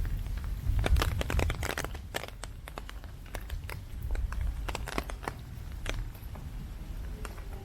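Heavy typhoon rain: raindrops striking close to the microphone make dense, irregular sharp ticks, over a low rumble of wind buffeting the microphone that is strongest about a second in.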